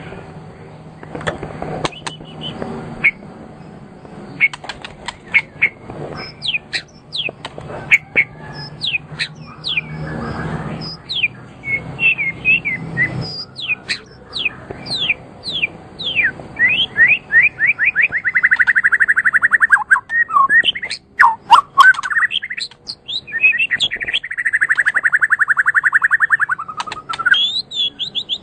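A songbird singing: a string of quick whistled notes sweeping up and down, with two long, fast trills in the second half.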